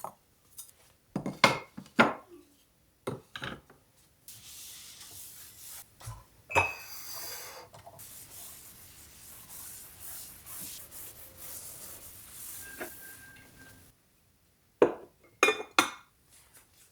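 Dishes and utensils clinking and knocking in several quick clusters, with a steady hiss running through the middle stretch.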